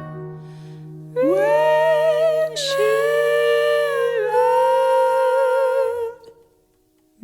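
A solo voice singing the long, wavering closing note of a ballad, stepping down to a lower held note and fading out about six seconds in. A moment of near silence follows.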